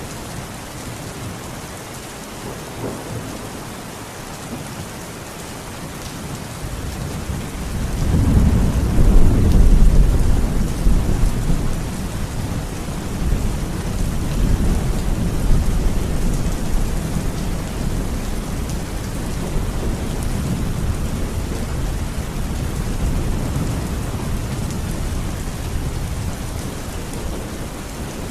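Heavy rain falling steadily, with a long roll of thunder that builds from about seven seconds in, peaks a few seconds later and rumbles on, slowly fading.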